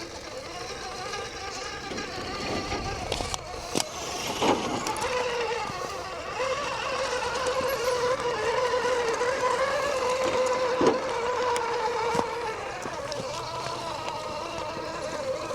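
Small electric motor and gearbox of a mini RC crawler whining at a fairly steady pitch, louder through the middle, with a few sharp knocks and clicks.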